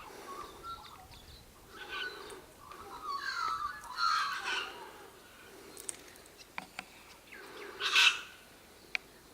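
Birds calling: several short warbling calls, then one loud harsh call about eight seconds in.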